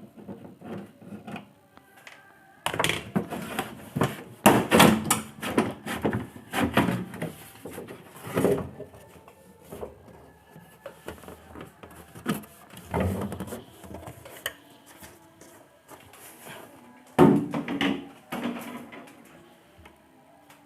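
Plastic cabinet of a Polytron CRT television being opened: irregular knocks, clatter and rubbing as the back cover and set are handled, busiest in the first half and again near the end.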